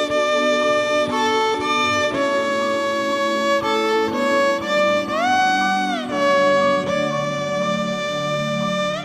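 Background music led by a bowed violin playing long held notes, sliding up in pitch about five seconds in and back down a second later.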